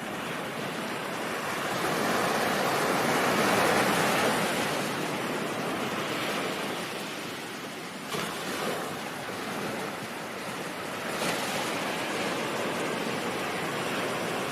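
Ocean surf: a steady wash of waves that swells to a peak a few seconds in, eases off, and builds again near the end.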